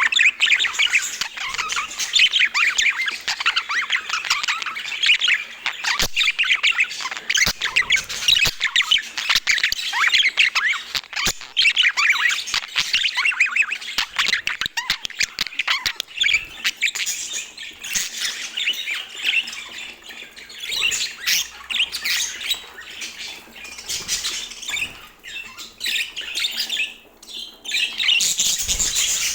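Budgerigars chattering and warbling in rapid, dense chirps and squawks, with scattered sharp clicks; the chatter thins out somewhat in the second half.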